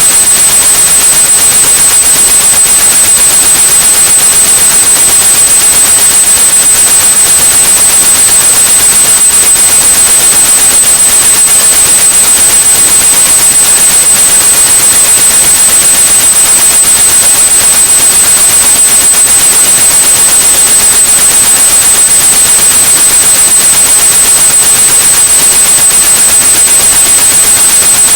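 Steady white noise with a continuous high-pitched pure tone at 8100 Hz mixed in: a synthetic tinnitus-masking sound, loud and unchanging.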